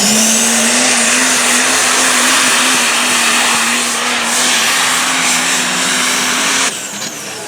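Super modified four-wheel-drive pulling truck's engine running at full throttle, a loud steady blare with a held tone. The sound drops off sharply near the end.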